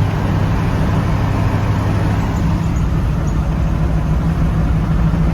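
A road vehicle on the move: steady engine and road noise, with a low hum.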